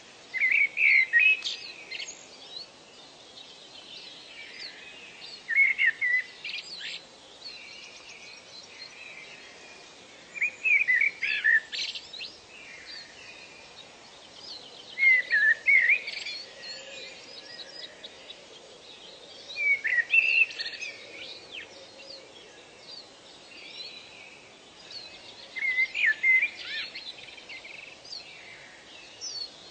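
A songbird repeats a short, loud, whistled song phrase about every five seconds, each lasting a second or so with quick up-and-down notes. Softer chirps from other birds run underneath it.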